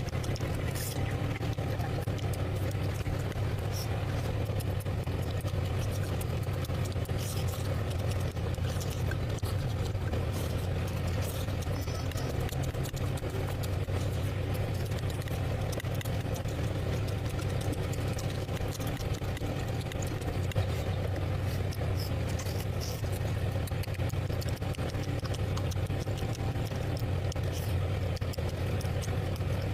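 A steady low hum throughout, with scattered faint clicks and smacks from someone eating curry and rice.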